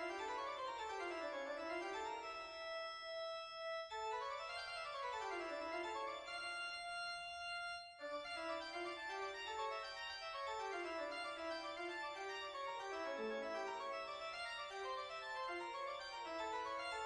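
Keyboard music accompanying a silent film: quick rising and falling runs of notes, twice giving way to held chords.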